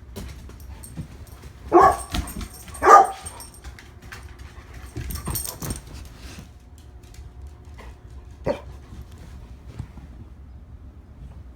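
Young female Labrador barking: two loud barks about a second apart, then a few quieter, scattered barks later on.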